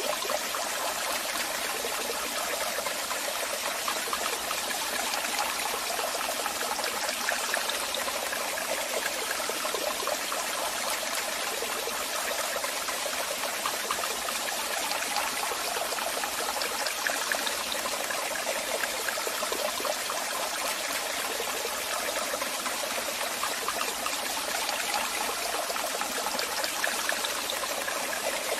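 Waterfall: water falling and rushing steadily, with a bright splashing hiss and little low rumble.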